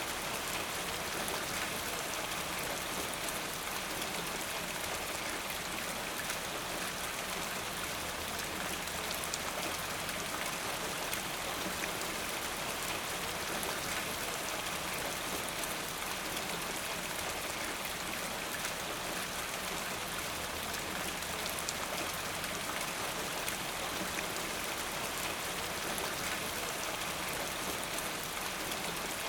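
Steady rain falling, a dense even patter of many drops on a surface.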